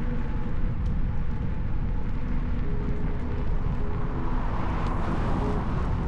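Steady low wind rumble on the microphone of a moving electric unicycle, with faint humming tones that come and go.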